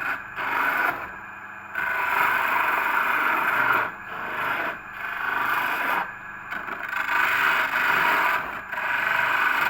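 Home-built lathe cutting, a tool scraping against the spinning workpiece in repeated strokes of one to two seconds with short breaks between them.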